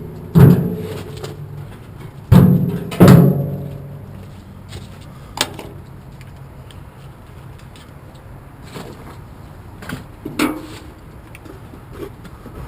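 Heavy metallic bangs and clanks, three loud ones in the first few seconds that ring on briefly, then a few lighter clicks and knocks: a sheet-metal electrical panel on an air conditioner's outdoor unit being opened and handled to check the wiring.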